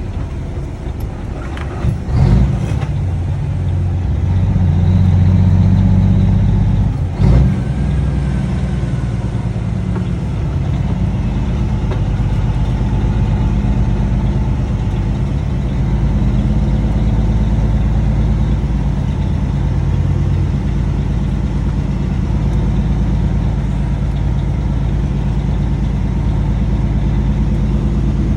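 Cummins ISX straight-six diesel running steadily through a six-inch straight-pipe exhaust. It is a little louder for a few seconds near the start, with a couple of sharp knocks, about 2 and 7 seconds in.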